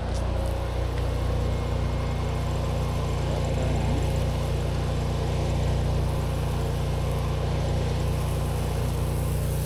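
Gas-engine pressure washer running steadily at a constant pitch, with water spraying from the wand during a rinse.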